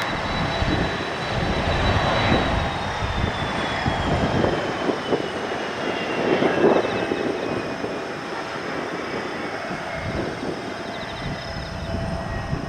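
Jet airliner's engines spooling down, a thin whine sliding slowly lower in pitch over a wash of engine noise. Gusty wind rumbles on the microphone.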